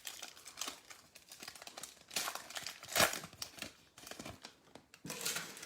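Trading-card pack wrappers crinkling and tearing as Optic basketball packs are opened by hand, in a series of short rustles.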